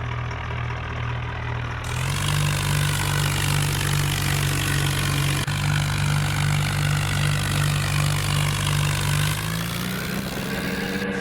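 Tractor engine running steadily at a low pitch. Its note steps up slightly about two seconds in, then rises and falls again near the end as the engine briefly speeds up.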